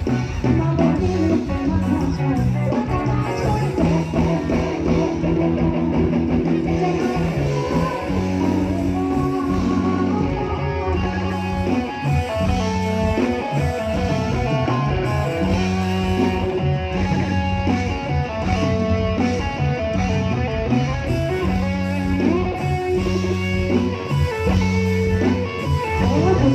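Live band playing an instrumental passage led by guitar over a steady bass line.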